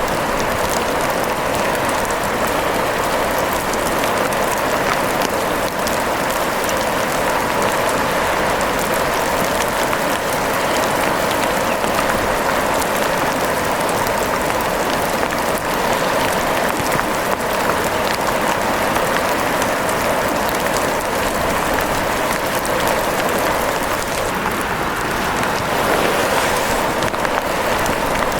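Steady rain falling, an even hiss with scattered fine drop taps.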